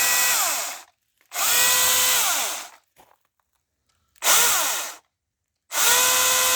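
Milwaukee M18 Fuel brushless battery chainsaw running free with no wood, its motor and chain whining with a high hiss in repeated trigger pulls. A run winds down about a second in, then three more short bursts, each spinning up quickly and falling in pitch as the trigger is released.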